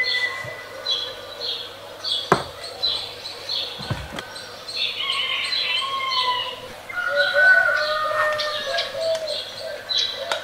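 Birds chirping and singing: a short high chirp repeats over and over, and lower warbling calls come in about seven seconds in. There are two soft knocks, a little after two seconds and at about four seconds.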